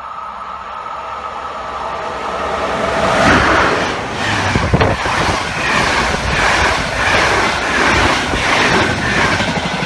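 A train running past close by on the rails. It grows louder over the first few seconds, then gives a regular clatter of wheels over the rails, with one sharper clank about halfway through.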